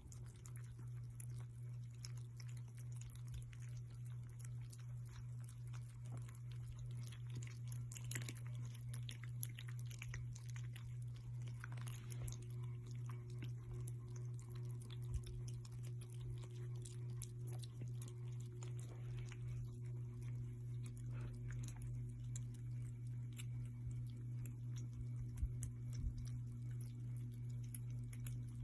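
Cat purring steadily, the purr swelling and fading with each breath, with many small soft clicks and smacking sounds over it.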